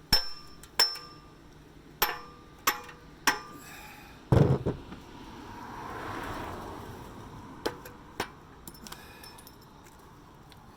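Hammer blows on metal, about six sharp strikes in the first half, some ringing, the heaviest and dullest about four seconds in, then a couple of lighter knocks. The tool is being knocked loose from the exhaust pipe end it was driven into to open the pipe up.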